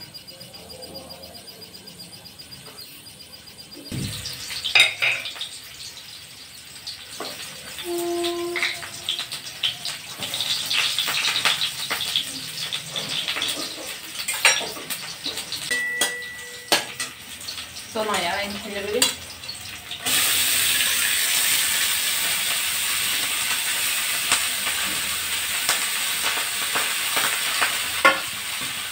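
Chopped leafy greens sizzling in hot oil in a steel wok, the sizzle starting suddenly about two-thirds of the way through and running steadily on as they are stirred. Before that, scattered clicks and knocks of kitchen utensils and pots.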